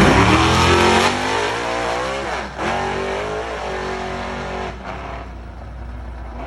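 Car engine accelerating hard, its pitch climbing, with a gear change about two and a half seconds in, then holding pitch while growing quieter as the car pulls away.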